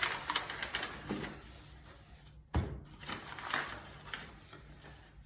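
Greeting cards and their packaging being handled: irregular light rustling and small clicks of card and wrapping, with one louder rustle about halfway through.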